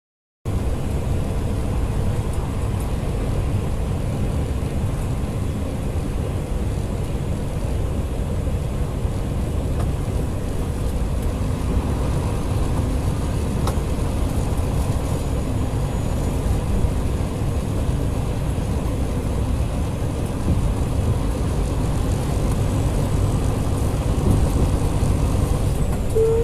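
Steady road and engine noise of a moving car, heard from inside the cabin, with a brief tone at the very end.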